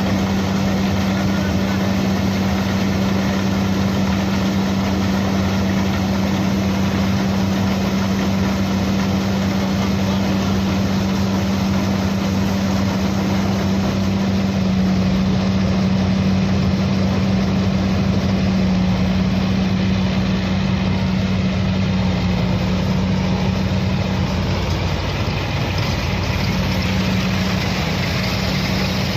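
Tractor's diesel engine running steadily at a constant speed, a strong low hum; its note wavers briefly about 25 seconds in.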